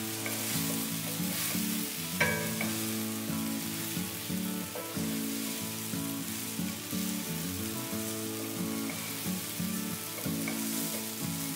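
Oil sizzling as vermicelli, chopped vegetables and spices are stirred with a wooden spatula in a nonstick wok, with one sharp knock about two seconds in.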